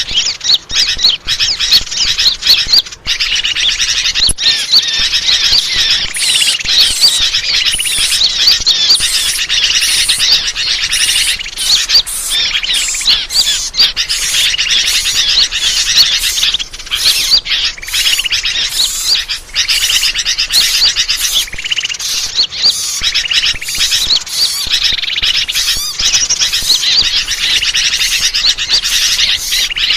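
Dense, continuous chorus of many small birds chirping, twittering and trilling over one another: a bird-lure (pikat) call recording meant to draw birds in.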